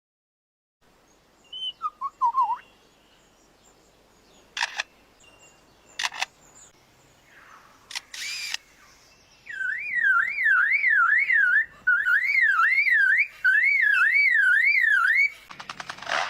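Lyrebird mimicking other sounds: a few short bird notes, then sharp camera-shutter-like clicks a second or two apart. From about ten seconds in comes a long whistle wavering up and down about twice a second, with a short break partway through.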